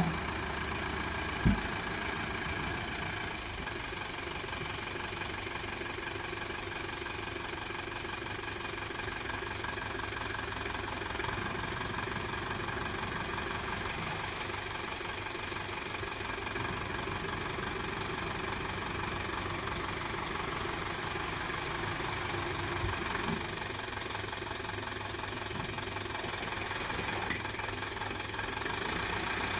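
Eicher tipper truck's diesel engine running steadily. There is a sharp knock about a second and a half in and a lighter one near the end.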